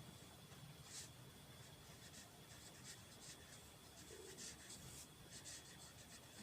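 Faint, irregular scratching of a pen writing out a formula, with a faint steady high-pitched whine behind it.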